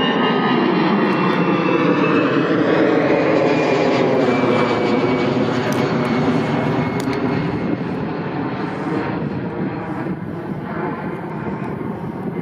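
Jet engines of an Airbus A319 at take-off power as it goes past and climbs away: a loud steady noise with a whine falling slowly in pitch, fading over the last few seconds.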